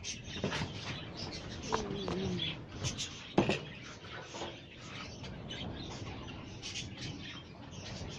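A mixed flock of small birds chirping continuously, many short overlapping chirps. About two seconds in there is a short pitched call that bends in pitch, and a sharp knock about three and a half seconds in.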